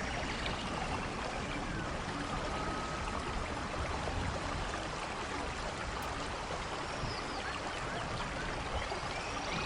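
Steady rainfall, an even continuous hiss of rain with water running off, with a few faint high chirps now and then.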